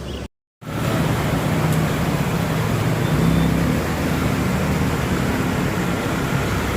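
Road traffic: vehicle engines running under a steady wash of road noise. The sound drops out for a moment near the start, then carries on.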